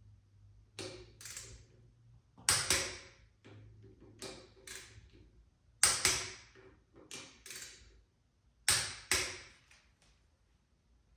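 Torque wrench clicking as brake-rotor bolts are tightened to 30 lb-ft in a star pattern: three sharp double clicks about three seconds apart, with lighter clicks between them as the wrench is moved to the next bolt.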